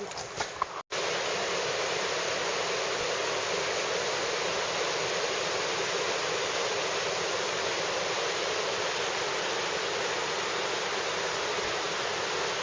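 Steady rushing roar of falling or fast-flowing water, such as a mountain waterfall or river, with no change in level. It starts abruptly about a second in and stops abruptly just before the end.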